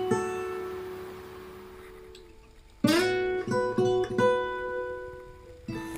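Background music of an acoustic guitar: chords strummed and left ringing as they fade, with a fresh strum about three seconds in and another near the end.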